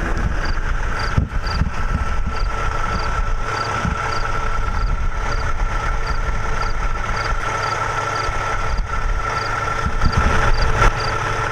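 Semi truck's diesel engine running, heard from inside the cab as a steady low drone with a steady whine above it and a faint high tick about twice a second.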